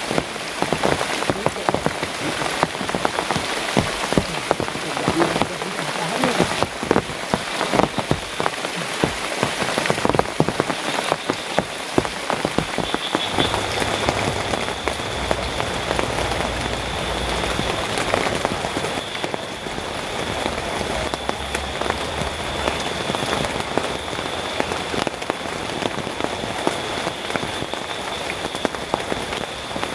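Heavy rain falling steadily, with many close drops striking. About twelve seconds in, a thin steady high whine joins it and holds.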